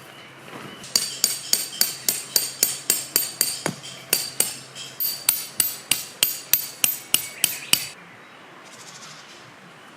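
A metal tent peg being driven into the ground with a peg hammer: a quick, steady run of ringing metal-on-metal strikes, about three or four a second, starting about a second in and stopping near the eighth second, with a short pause partway through.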